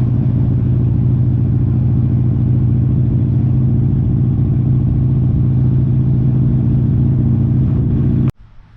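A motorcycle engine running steadily at idle. It cuts off suddenly with a click near the end.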